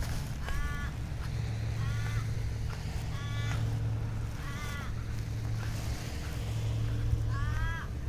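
A bird calling over and over, about five short harsh calls a second or more apart, over a steady low rumble.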